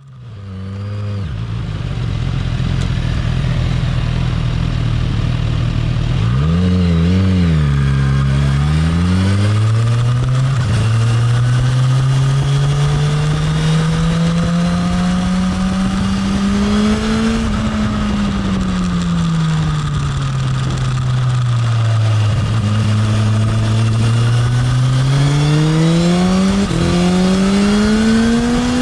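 Sport motorcycle engine ridden on a race track: idling at first, blipped a few times about six seconds in, then pulling away with its note rising and falling slowly with throttle, gears and corners, over a steady rush of wind and road noise.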